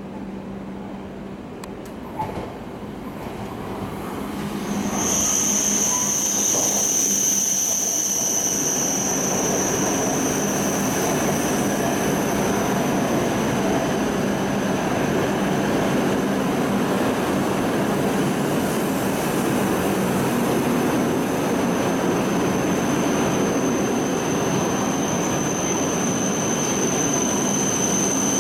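E7/W7-series Shinkansen train pulling into the platform. Its running noise builds over the first few seconds, and from about five seconds in a steady high-pitched squeal rides over the continuous rumble of the cars going by.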